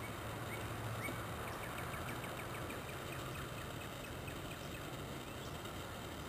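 Birds calling: a quick run of short, evenly repeated chirps a second or two in, with a few scattered chirps around it. Under them is a steady outdoor hiss and a low hum.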